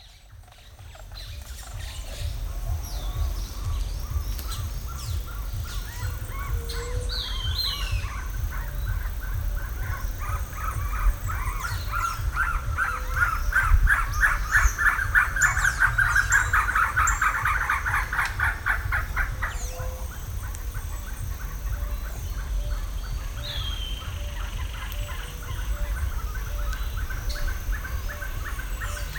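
Wild birds calling along a creek at dawn: one bird gives a long, rapid rattling call that swells and breaks off about twenty seconds in, while others give short downward-hooked whistles and soft repeated notes. A steady low rumble runs underneath.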